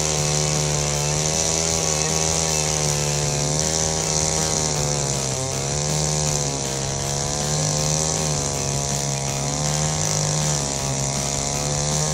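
Holzfforma G660 two-stroke chainsaw running at high throttle under steady load while milling lumber. Its pitch holds nearly level, sagging slightly now and then as the bar bites.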